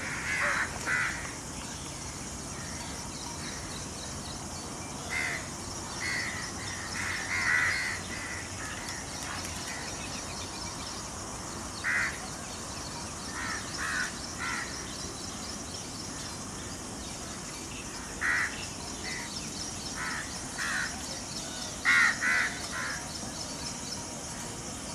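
Wild birds calling every few seconds with short harsh notes, often two or three in quick succession, over a steady high hiss of outdoor ambience.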